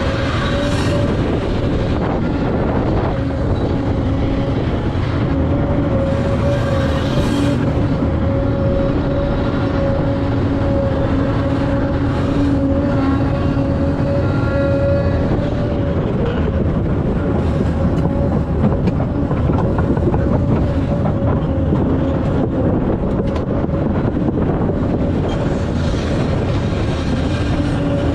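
Heavy diesel earthmoving machinery, a Volvo EC950F excavator with A60H articulated haul trucks, running in a steady loud drone with a constant whine, with a few brief clatters along the way.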